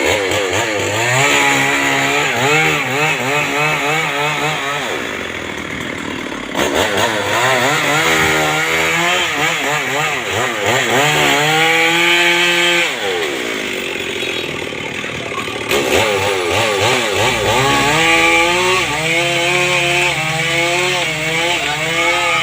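Two-stroke chainsaw cutting into a tree, its engine pitch wavering rapidly up and down as the chain bogs in the wood and recovers. The revs drop back twice and climb sharply again, about six and sixteen seconds in.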